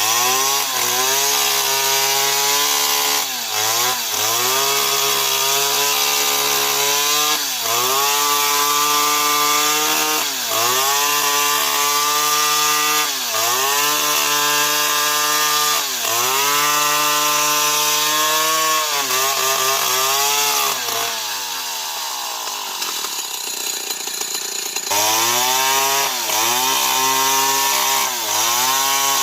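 Old Stihl 070 two-stroke chainsaw cutting into a tree. The engine pitch sags as the chain bites into the wood and climbs back, over and over every few seconds. From about two-thirds of the way in it runs lower and quieter for a few seconds, then high revs return suddenly.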